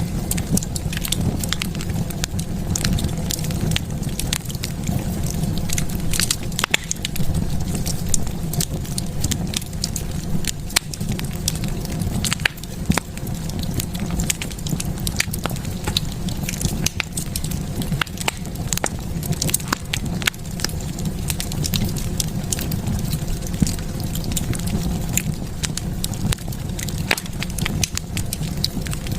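Wood fire burning in a fireplace, crackling with frequent irregular sharp pops over a steady low sound of the flames.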